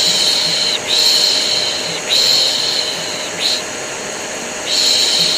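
A person shushing ("shhh") over the steady drone of an electric vacuum cleaner, used as white noise to calm a colicky baby. The shushes come one after another, each about a second long with brief breaks, and a longer pause in the second half.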